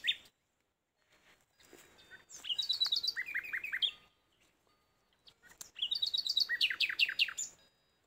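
A songbird singing two short song phrases, each a quick run of high notes dropping to a series of repeated lower notes. The first comes about two and a half seconds in, the second about three seconds later.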